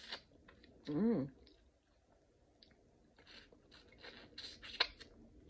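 Close-up mouth sounds of a person biting and chewing boiled shrimp: short clicks and chewing noises in clusters, with one sharp click near the end. About a second in comes a short hummed 'mm' that rises and falls in pitch, the loudest sound.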